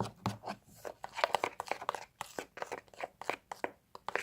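A sticky glue and shaving-foam slime mixture being stirred in a container, making a run of irregular crackling clicks as the borax glycerin activator is worked in.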